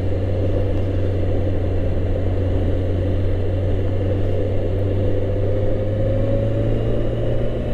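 Motorbike engine running steadily under way, fitted with an aftermarket exhaust that the rider believes is a GP, with a deep, even drone; the engine note rises slightly about halfway through.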